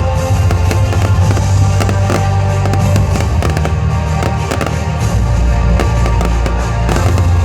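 Fireworks display going off: a rapid, irregular run of bangs and crackles, over loud music with a heavy bass.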